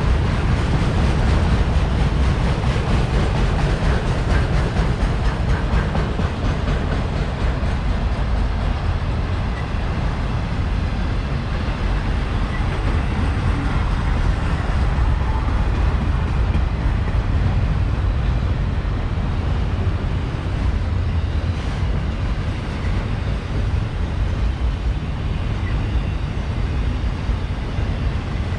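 CSX autorack freight train rolling past: a steady rumble of car wheels on the rails.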